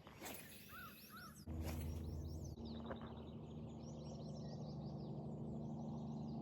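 Small songbirds chirping and twittering over a steady low hum and outdoor background noise. The background shifts abruptly about a second and a half in and again a second later.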